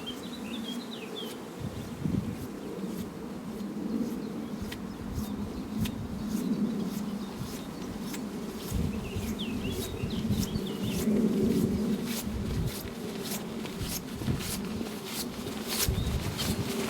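Nylon raincape rustling and crinkling as the wearer moves, the crackles coming thicker near the end, with a bird chirping at the start and again about nine seconds in.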